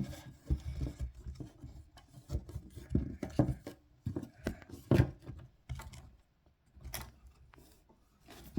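Pieces of wood being handled and pushed into an insect enclosure: irregular knocks and scraping rubs of wood on wood and on the enclosure, the loudest knocks about three and five seconds in.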